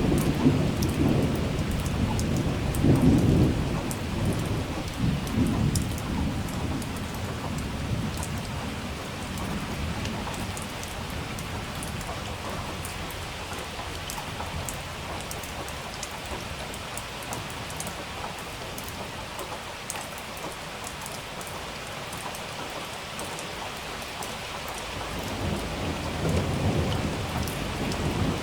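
Thunderstorm: steady rain with rolling thunder. A low rumble of thunder at the start dies away over the first several seconds, the rain goes on alone, and another rumble builds near the end.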